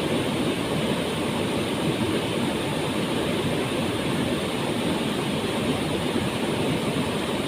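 Waterfall pouring steadily into its pool: an even, unbroken rush of falling water, deepest in the low middle.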